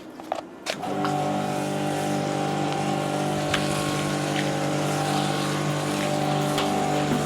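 After a couple of clicks, the V-TUF V7's 2.5 kW brushless electric pressure washer starts up about a second in and runs steadily with an even motor hum, spraying water.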